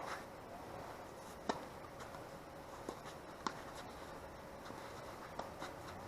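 Tennis ball being hit with rackets and bouncing during a rally: a sharp pop right at the start, then several fainter pops spread through the next few seconds, over a steady background hiss.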